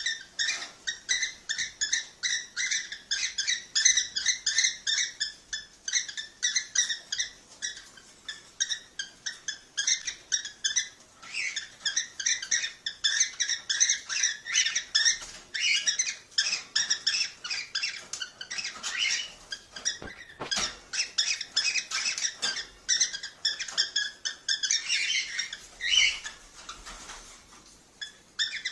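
Cockatiels chirping in fast, continuous chatter: many short, high calls a second, starting abruptly and thinning briefly near the end.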